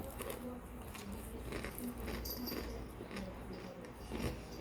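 Chewing a crunchy frozen chunk straight from the freezer: irregular crackles and crunches, with a louder crunch about four seconds in.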